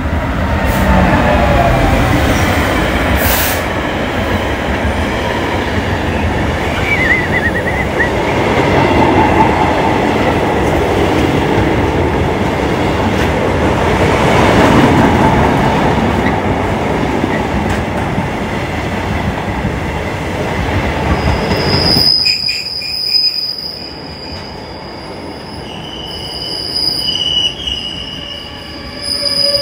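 A train running past on the track with a heavy, steady rumble and rush of wheels on rail. About 22 seconds in, the rumble drops off suddenly and gives way to quieter, high-pitched wheel squeal tones.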